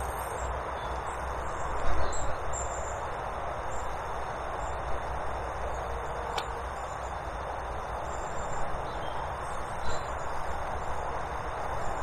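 Small birds chirping in short, scattered calls over a steady outdoor hiss and low rumble. There is one sharp click about six seconds in, and a couple of brief knocks.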